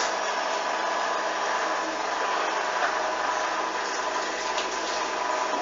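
Hoover front-loading washing machine running in its final spin with a steady motor whine and drum noise while the load is badly unbalanced; the spin attempt fails and the machine gives up spinning.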